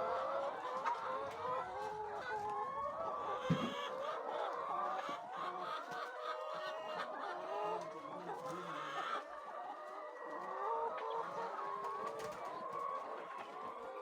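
A flock of chickens clucking and calling, many birds at once in an overlapping chorus.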